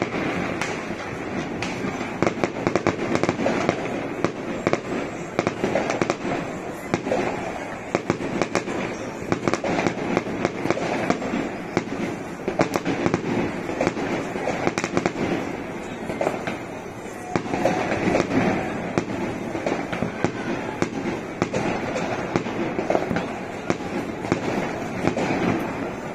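New Year's fireworks going off in a dense barrage: a continuous run of bangs and crackles from bursting aerial shells and firecrackers, with a short lull about seventeen seconds in.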